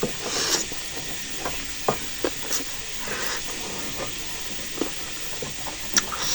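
Close-up eating sounds from a bowl of spicy instant noodles and sukuti: scattered light clicks and two short breathy rushes, about half a second and three seconds in, over a steady hiss.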